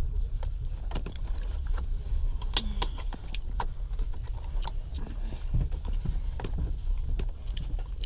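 Passenger train carriage heard from inside while running: a steady low rumble from the wheels and running gear, with irregular small rattles and clicks from the carriage fittings, the sharpest about two and a half seconds in.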